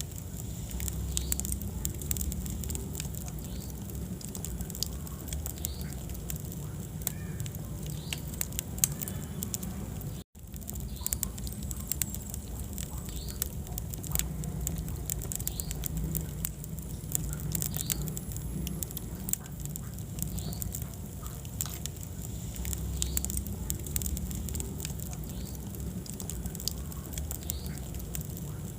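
Wood fire in a fireplace crackling and popping, with a steady low rumble of the flames under the dense sharp snaps. The sound cuts out for a split second about ten seconds in.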